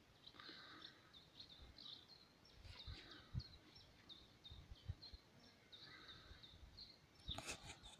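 Near-silent outdoor ambience with a small bird chirping repeatedly in short high notes, over soft low thumps. A brief louder rustle comes near the end.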